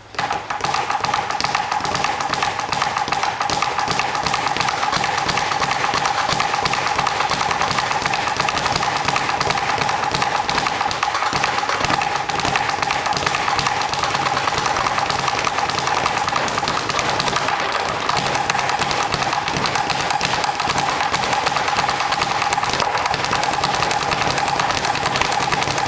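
Speed bag being punched without a break, the bag rattling in a rapid, even drumroll of knocks against its rebound platform. A steady high hum runs underneath.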